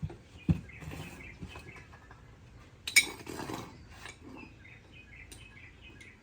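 Scattered metallic clinks and knocks, the sharpest about three seconds in.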